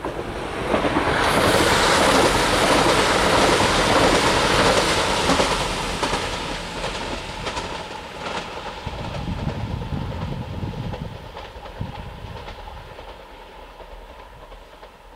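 Train running on the electrified line: a loud rush of wheel and rail noise that swells about a second in and fades from around six seconds, with a fainter rumble and a few clicks after that.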